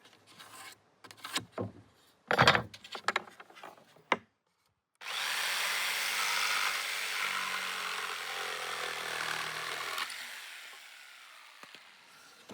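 A few scattered knocks and clicks, then a motor-driven device starts suddenly about five seconds in, runs steadily with a low hum for about five seconds, and winds down over the next two.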